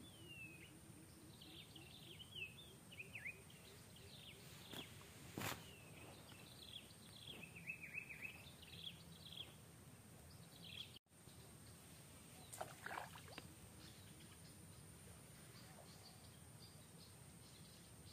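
Faint outdoor forest ambience with small birds chirping in quick, high little calls through the first half, and a few more a little after the middle. A steady faint high whine runs underneath, and there is one sharp click about five seconds in.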